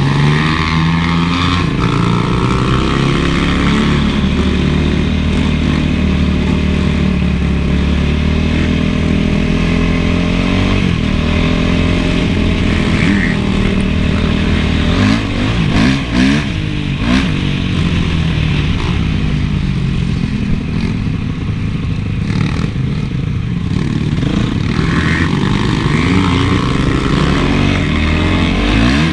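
Honda CRF450 motocross bike's single-cylinder four-stroke engine ridden hard, its revs climbing and dropping repeatedly as the rider works the throttle and gears, with a burst of quick throttle blips about halfway through.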